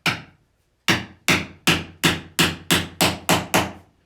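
Tenon mandrel being driven into the hole in a wooden workpiece with repeated blows: about ten sharp knocks, a short pause after the first, then a steady run of about three a second, seating the mandrel tight so it can't move or twist.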